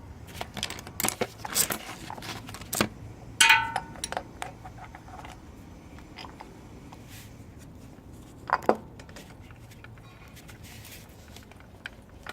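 Metal tools and small parts being handled: a quick run of clicks and clatters, then a ringing metallic clink about three and a half seconds in and another sharp clink near eight and a half seconds.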